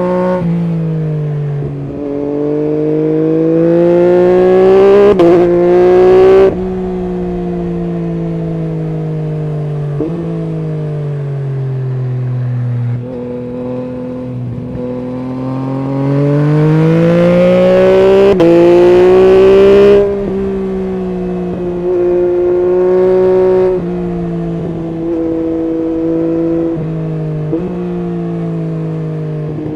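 Yamaha MT-09 SP's inline three-cylinder engine through an Akrapovic full exhaust system, under way with no words over it. Revs climb twice to a loud peak, about six seconds in and again about twenty seconds in, each cut off sharply, with the pitch falling away on deceleration in between and steadier running with short blips near the end.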